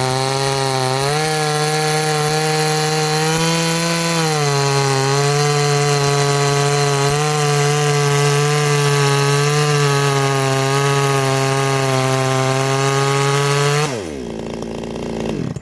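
Orange 58cc Chinese two-stroke chainsaw running flat out, its revs stepping up and easing back briefly, then held steady without climbing. The owner takes this as torque, holding its rev. Near the end the revs fall away sharply.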